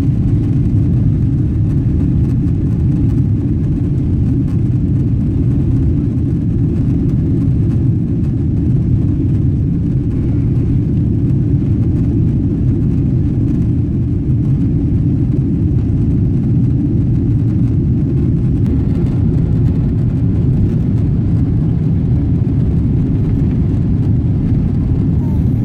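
Boeing 777-200 engine and airframe rumble heard from inside the passenger cabin, loud and steady with the power up.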